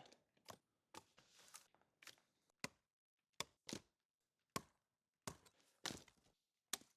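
A dozen or so faint, sharp knocks and snaps at irregular intervals, with near silence between them.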